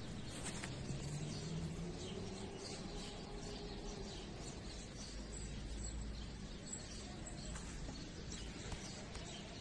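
Faint bird chirps scattered over a steady low rumble of outdoor ambience, with a faint hum in the first few seconds.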